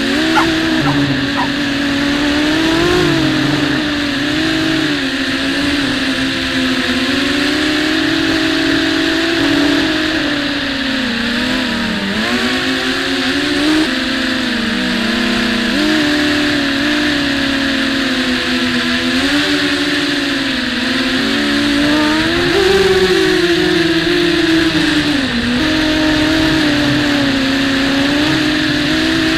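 Small racing quadcopter's four brushless motors and propellers, heard from on board, whining steadily as it flies. The pitch keeps rising and falling with the throttle over a constant rush of air.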